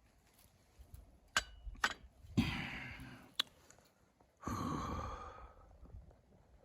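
Two long breathy exhalations like sighs, the first about two and a half seconds in and the second about four and a half seconds in, with a few sharp clicks before and between them.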